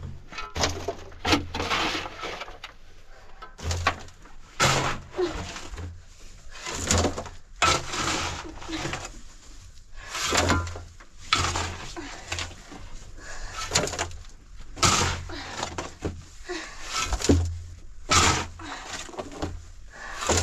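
Repeated heavy strikes, each a sharp crack with a dull thump under it, coming roughly once a second in an uneven rhythm.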